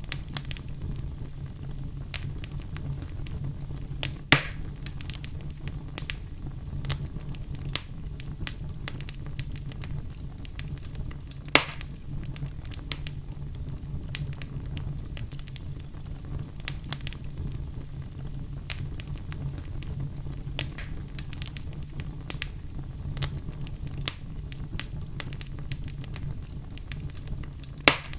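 Wood fire burning in a fireplace, crackling with many small pops and a louder snap about four seconds in and another about eleven seconds in, over a steady low rumble of the flames.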